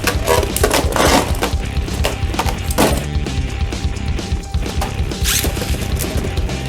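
Beyblade Burst spinning tops clashing in a stadium: many sharp, irregular clacks of hard-plastic impacts, over background music.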